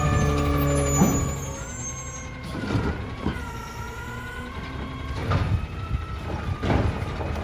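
Battle Motors garbage truck with a Heil Durapack Rapid Rail body working: the engine runs high, then drops with a knock about a second in. A faint whine and several clunks and bangs follow.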